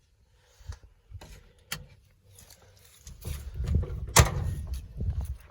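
A few light clicks, then low rumbling movement and one sharp knock a little after four seconds: the door of a 1979 Ford F-150 pickup being shut.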